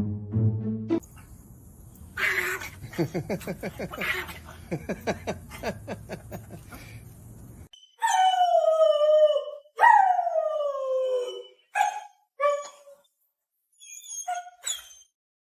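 A dog vocalising: first a fast, rhythmic run of short sounds, then two long howls falling in pitch, followed by a few short yelps and howls.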